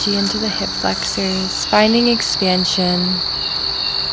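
A steady, high-pitched chorus of insects, with a woman's voice speaking over it for about the first three seconds.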